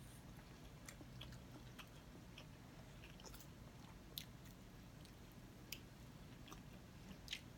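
Quiet close-up chewing, with scattered small wet mouth clicks every second or so over a faint low hum.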